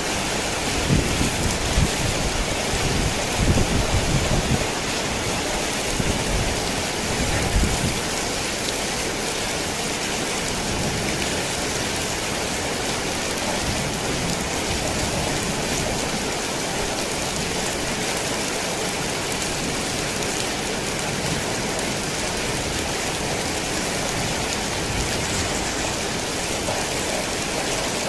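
Torrential rain pounding a tin roof in a dense, steady hiss. Thunder rumbles low through the first several seconds and dies away about eight seconds in, leaving only the rain.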